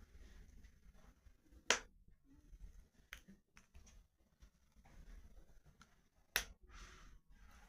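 Wood fire crackling in a fireplace: two sharp pops about two seconds and six seconds in, a few fainter crackles between, over a soft quiet hiss.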